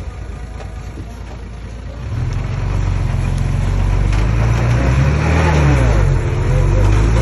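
Komatsu D20P bulldozer's diesel engine running, revving up and getting louder about two seconds in, its pitch wavering as it works under load.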